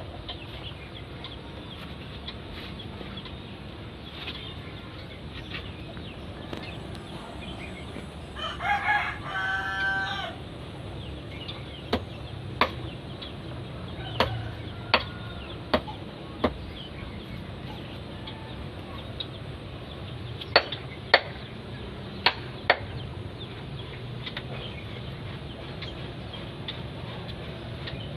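A rooster crows once, about eight seconds in, a call of roughly two seconds. Later come two short runs of sharp clicks.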